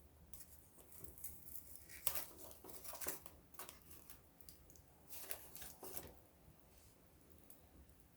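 Small wood fire crackling faintly, with clusters of snaps and pops about two seconds in and again around five seconds.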